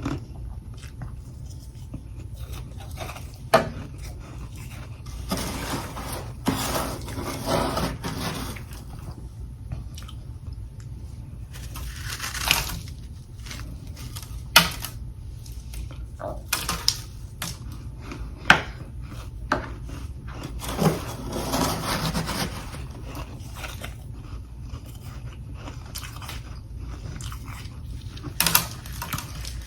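A person biting and chewing chunks of humidifier freezer frost, in scattered bursts of crunching with a few sharp single cracks between them.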